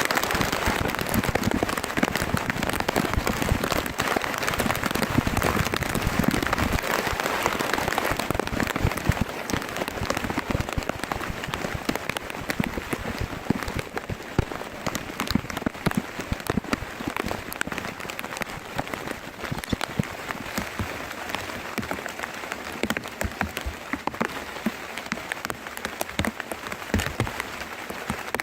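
Heavy rain falling, with many individual drops pattering and ticking close by, heaviest for the first several seconds and easing a little afterwards.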